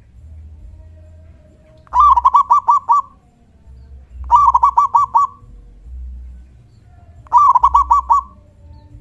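Zebra dove (perkutut) cooing loudly: three phrases a couple of seconds apart, each a quick run of about five rolling notes lasting about a second.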